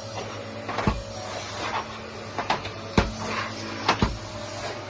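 A few sharp knocks and clatters of household objects being handled, the loudest about three seconds in, over a steady low background hum.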